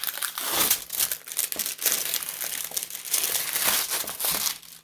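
Plastic film on a sticky diamond painting canvas crinkling as it is handled and smoothed out.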